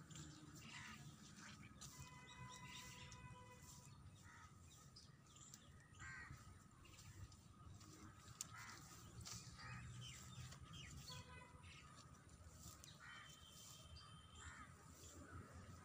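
Faint outdoor ambience of birds calling: scattered short calls throughout, with a few longer held calls about two seconds in, around eleven seconds and again near the end.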